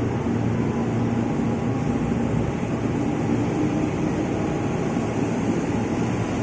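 Train running past with a steady rumble and rail noise, and a steady low hum for the first couple of seconds.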